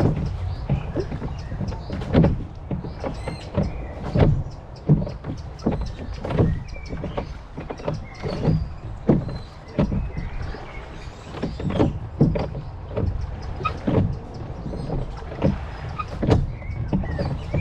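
Oars of a rowing boat working in the water, a stroke about every two seconds, each a sharp splash and knock. Under them runs a steady low wind rumble on the microphone, with faint bird chirps.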